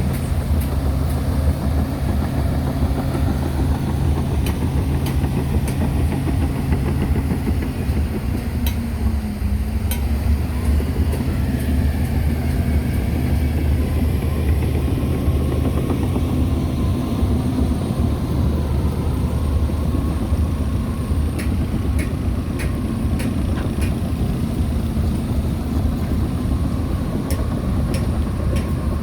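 Heavy earthmoving machine's diesel engine running steadily under load, its pitch dipping briefly and recovering about nine seconds in, with scattered sharp clanks.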